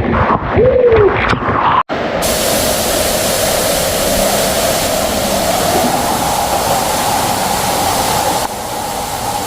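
A waterfall inside a rock cavern, pouring with a loud, steady rush that sets in after a sudden break about two seconds in. Before the break there are a few voices calling.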